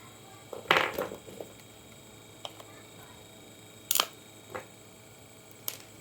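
A handful of short, sharp clicks and knocks, the loudest a quick cluster about a second in, over a faint steady electrical whine.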